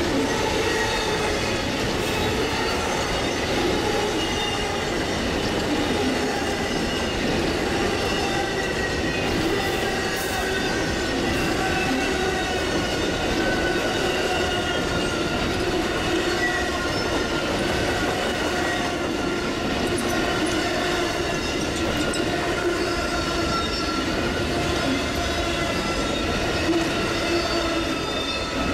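Amtrak Auto Train's enclosed autorack cars rolling past at speed: a steady rumble of steel wheels on rail with a continuous, wavering high squeal from the wheels.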